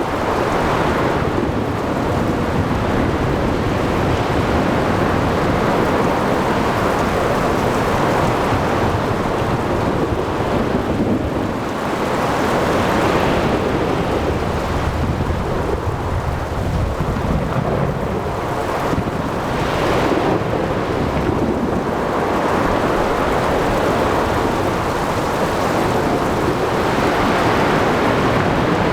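Thunderstorm at sea: a steady wash of heavy rain and wind, with thunder rumbling deep and long through the middle, and waves surging in now and then.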